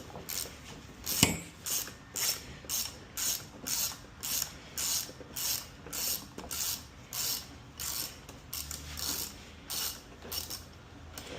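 Hand ratchet wrench clicking in a steady run of short strokes, about two to three clicks a second, with one sharper knock about a second in, as a screw on a Stihl HT131 pole saw is worked loose.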